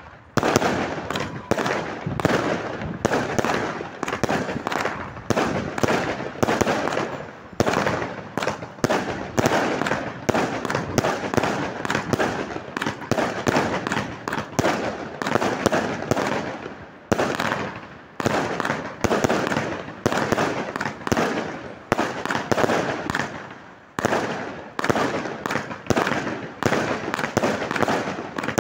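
Fireworks display: a rapid, continuous barrage of aerial shells and cakes bursting, several bangs a second, with crackling between the reports.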